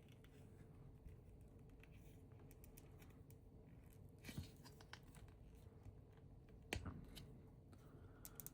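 Faint clicks and clacks of plastic LEGO pieces being handled and pressed together, with the sharpest click just before seven seconds in, over quiet room tone.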